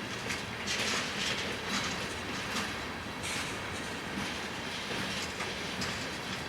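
Railcars rolling past, their wheels clacking irregularly over rail joints and switches, with some high metallic wheel noise.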